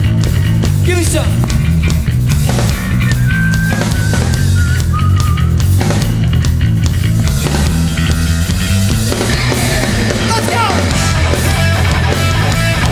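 Hardcore punk band playing live at full volume: distorted electric guitars, bass and drums.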